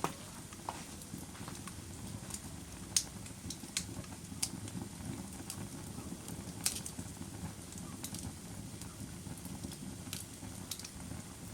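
Fire crackling: scattered sharp pops and snaps at irregular intervals over a steady low rumble of the burning.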